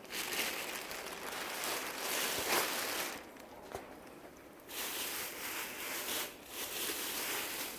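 Rustling of dress fabric being handled and turned over, in two long stretches with a quieter pause in between.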